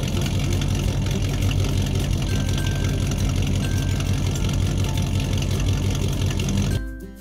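Car engine idling, a steady low rumble that cuts off suddenly near the end.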